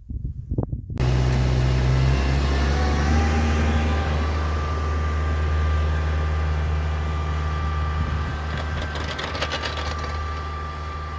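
Engine of a vehicle plowing snow off a gravel driveway, running at a steady low drone that cuts in abruptly about a second in. A short rattling stretch comes about nine seconds in.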